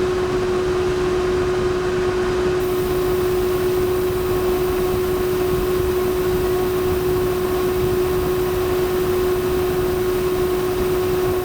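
A small electric fan running steadily: an even whirring hum with one clear held tone.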